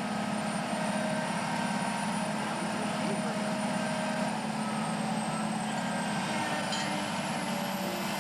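Heavy demolition machinery engine running with a steady, even drone.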